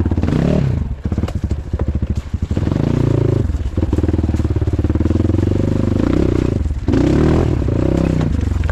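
Off-road motorcycle engine running and revving in repeated bursts: the pitch rises and falls several times, with short dips between, and a few knocks and clatters.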